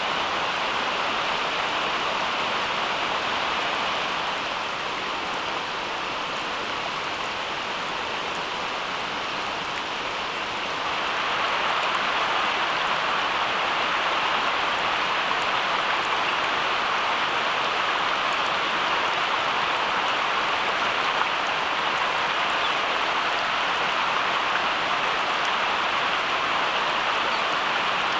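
Steady rain, an even hiss with no single drops standing out, growing a little louder about eleven seconds in.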